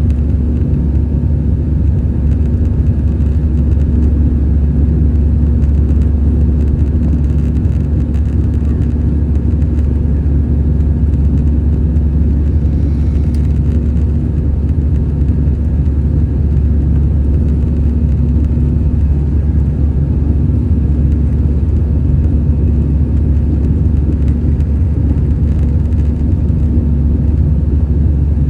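Steady cabin drone of an Airbus A320-214 with CFM56 engines: a deep, even rumble of the engines and airflow with a steady hum over it, unchanging throughout.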